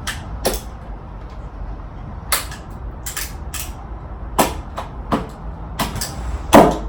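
A knife hacking at a stuck snack on a hard surface: about a dozen sharp, irregular knocks and clicks, the loudest near the end.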